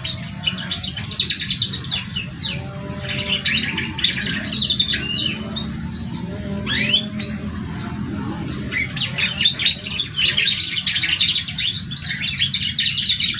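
A young male songbird, about two months old, singing in rapid bursts of twittering chirps and trills, with a few longer swooping notes around the middle, over a low steady hum.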